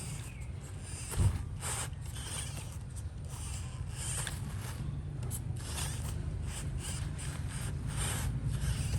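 RC crawler truck driving over rough ground: irregular scraping and crunching from tyres and chassis, over a low steady rumble, with a single sharp knock about a second in.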